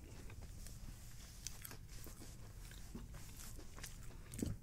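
Faint, soft chewing of a mouthful of french fries, with small scattered mouth clicks and a brief soft knock near the end.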